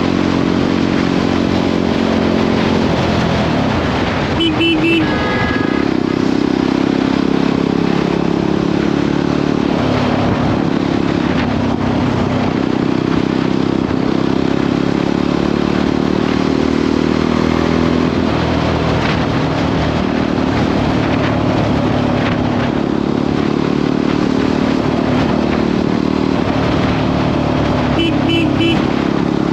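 Jawa 42 motorcycle's single-cylinder engine running steadily at cruising speed, its pitch rising and falling a little, with rushing road and wind noise. Brief double beeps sound about five seconds in and again near the end.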